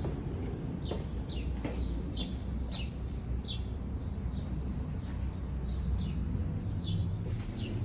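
A small bird chirping over and over, short high chirps that drop in pitch, about two a second, over a low steady rumble.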